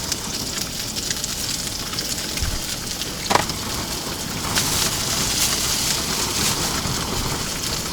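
Salmon frying in a pan over a portable propane stove, a steady sizzle and crackle of hot oil. A single brief click sounds about three and a half seconds in.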